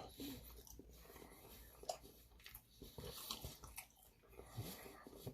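Faint chewing: soft wet mouth sounds and small clicks of a person eating.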